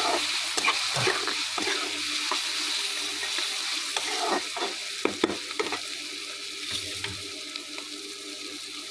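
Chopped onion and green chilli frying in hot oil in a kadhai: a steady sizzle, with a spatula scraping and knocking against the pan now and then, most often in the first half and around the middle.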